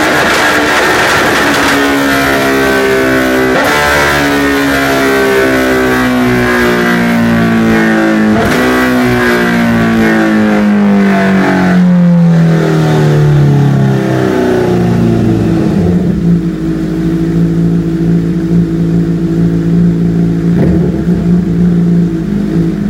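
A 2009 Honda CBR1000RR's inline-four engine, through a Racetec exhaust, winds down on the dyno. Its pitch falls steadily for about twelve seconds, with two brief jumps up along the way. It then settles to an uneven idle.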